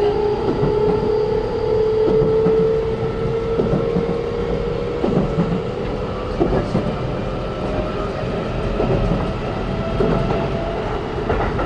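Siemens GTO VVVF inverter and traction motors of a Keikyu New 1000 electric train, heard inside the passenger car: a strong whine rising slowly in pitch as the train gathers speed, fading about seven seconds in. Under it run a steady rumble and scattered knocks of wheels over rail joints.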